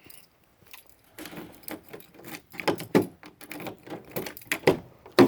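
A string of irregular clicks, rattles and knocks from things being handled, busier in the second half, with one sharp knock near the end.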